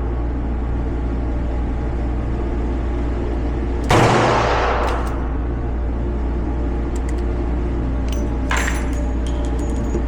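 A single shot from a Smith & Wesson 640 Pro Series snub-nosed .357 Magnum revolver about four seconds in, ringing off slowly, over a steady low hum. A smaller sharp sound with a few high clicks follows near the end.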